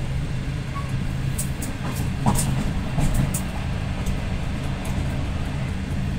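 Passenger train in motion, heard from on board: a steady low rumble with scattered light ticks and rattles.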